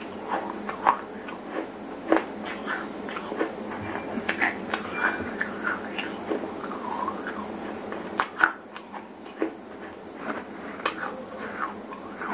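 Close-miked chewing and crunching of dry, gritty stone and clay pieces, heard as a run of irregular sharp crunches, one much louder about eight seconds in.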